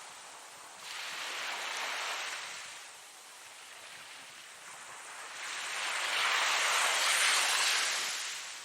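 Ocean waves breaking and washing in, in two surges: a smaller one that comes in suddenly about a second in and fades, then a louder, longer one building from about halfway and dying away near the end.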